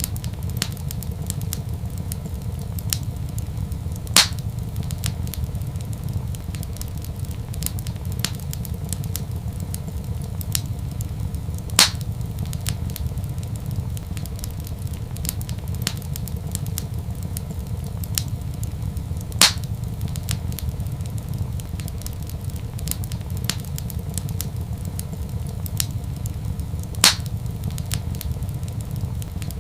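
Wood fire crackling in a fireplace, with many small crackles and four louder pops evenly spaced about seven and a half seconds apart, over a steady low rumble.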